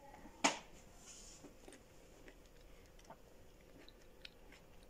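A person chewing quietly with the mouth closed: faint scattered wet mouth clicks, with one sharp click about half a second in.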